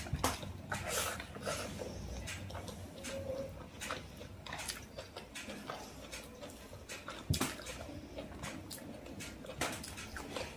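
A person chewing a mouthful of rice and chicken curry eaten by hand, with irregular mouth clicks and smacks close to the microphone and one sharper click about seven seconds in.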